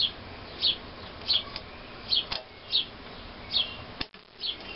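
A small bird chirping over and over: short high chirps that fall in pitch, about one every two-thirds of a second. A single sharp click about four seconds in.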